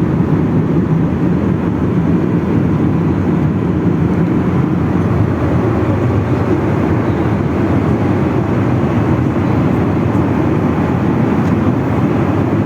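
Steady rumble of jet airliner cabin noise in flight, with even, unchanging engine and airflow noise concentrated in the low range.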